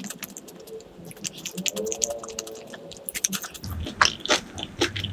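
Close-miked eating sounds: chewing and biting with many sharp, wet mouth clicks, denser and louder in the second half.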